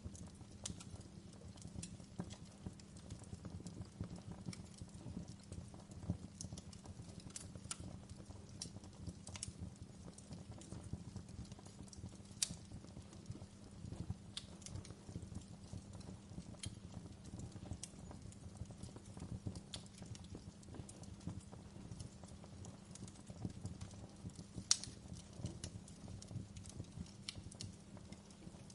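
Wood fire burning in a fireplace: irregular sharp crackles and pops over a low steady rumble, with a louder pop about halfway through and another near the end.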